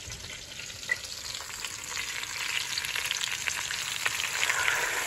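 Sliced peppers and onions frying in oil in a stainless steel pot: a steady crackling sizzle that grows louder toward the end, as water is poured in from a glass.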